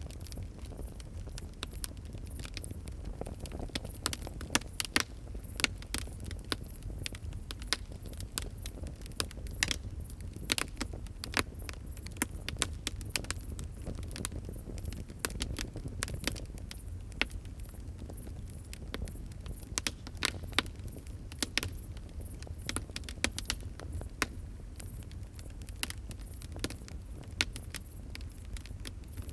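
Wood fire crackling and popping: a dense run of irregular sharp snaps, some louder than others, over a steady low rumble of the burning fire.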